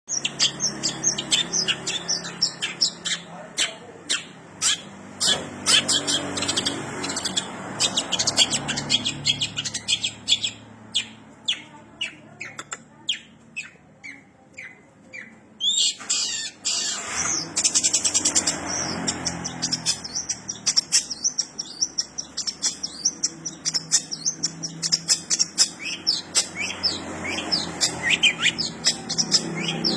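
Long-tailed shrike singing in rapid, dense runs of high chirps, filled with imitations of Eurasian tree sparrow chirping. The song thins to scattered notes about halfway through, then picks up densely again.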